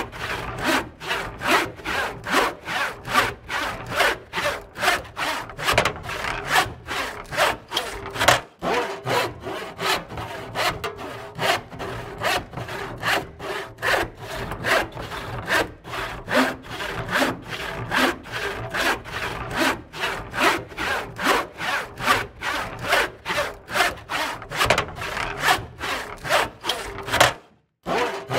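Hand saw cutting through wood in steady back-and-forth strokes, about two to three a second, with a brief break just before the end.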